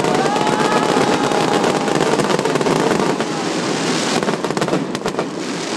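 Fireworks display with aerial shells bursting and crackling: a dense, rapid crackle throughout.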